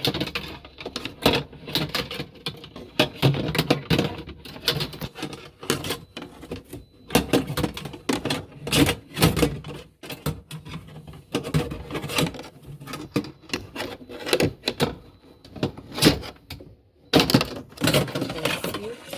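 Irregular clicks, taps and scrapes of a wire being poked into a semi-automatic washing machine's blocked drain to clear it.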